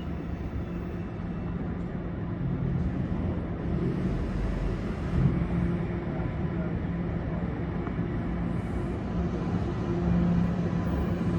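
TTC Line 1 subway train (Toronto Rocket stock) with a steady rumble and a low, steady hum. There is a short knock about five seconds in, and the sound grows a little louder toward the end.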